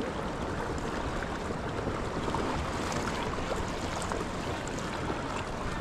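Steady wash of ocean surf and moving water around a kayak coming in to land through the waves, with a few small splashes.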